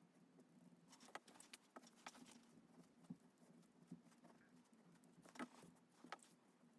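Faint scratching and tapping of a drawing tool on paper in short scattered strokes, the clearest about a second in, around two seconds, and a pair between five and six seconds, over a faint steady low hum.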